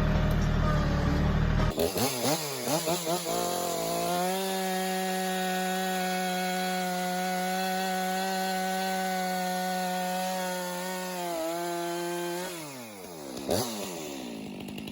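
A diesel tractor's low drone, then a chainsaw blipped a few times about two seconds in and held at steady high revs for about eight seconds. Its pitch then falls away as the saw winds down, with a knock just after.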